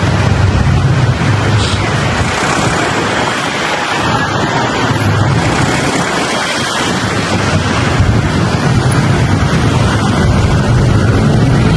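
Wind buffeting the microphone on a moving motorbike, with the bike's engine humming low underneath.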